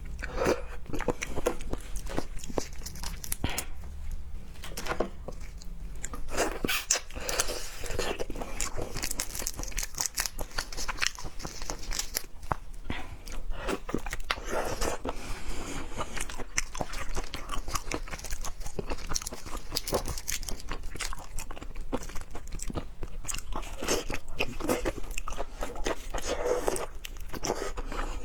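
A person chewing and biting seafood close to the microphone, with many small clicks and wet mouth sounds throughout.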